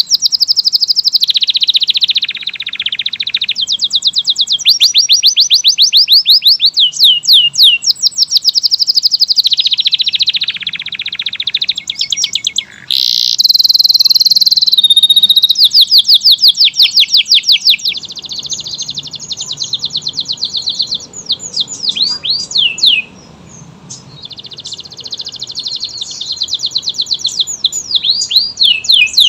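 Domestic canary singing a long, loud song of rapid trills, each a fast run of repeated sweeping notes. About 13 seconds in comes a brighter, held high rolling phrase, and there is a short pause near 23 seconds.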